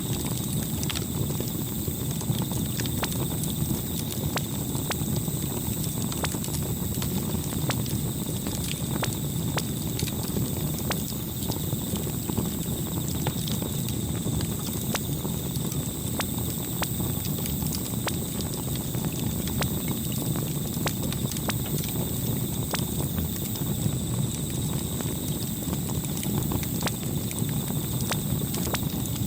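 Campfire burning: irregular crackles and pops of burning wood over a low, steady rumble of flame.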